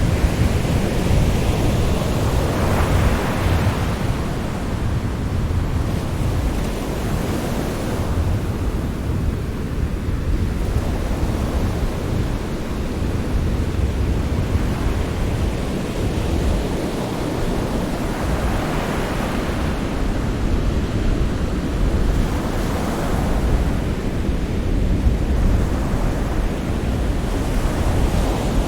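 Sea surf washing on a shore: a steady rushing wash with a deep low rumble, swelling and easing as waves break every several seconds.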